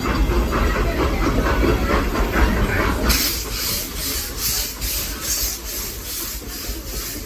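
Steam locomotive and its train running: rumbling wheel and car noise, then about three seconds in a rhythmic steam hissing sets in at roughly three beats a second as the engine works.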